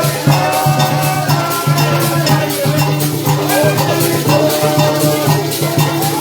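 Parang band music with maracas shaking in a steady rhythm over a pulsing bass line and held melody notes.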